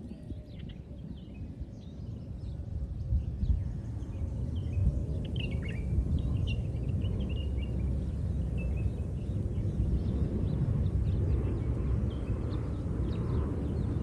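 Small bird chirping in short, scattered high calls, most of them in the first half, over a steady low rumble of outdoor noise that builds over the first few seconds.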